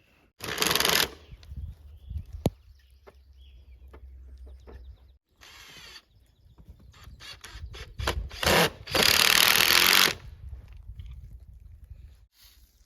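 Power drill run in short bursts, the longest about a second, with clicks and handling noise between them.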